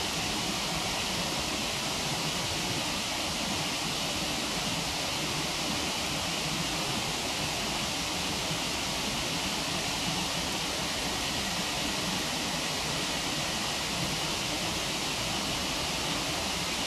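Waterfall rushing steadily, an even unbroken hiss with no distinct crackles standing out.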